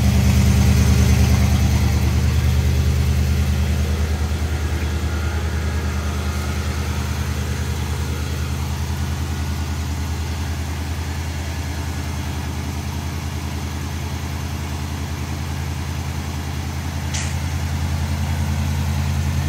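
1972 Oldsmobile Custom Cruiser's 455 Rocket V8 idling steadily on the choke just after a cold start, getting gradually a little quieter over the first dozen seconds. A single brief click sounds near the end.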